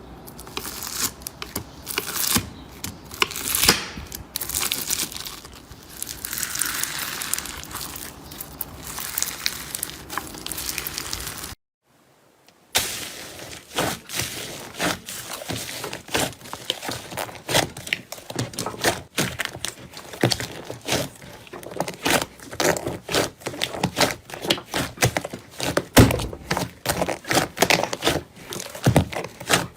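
Slime squeezed and worked by hand, crinkling and crackling. After a brief silent gap near the middle, a fast run of sharp clicks and pops follows.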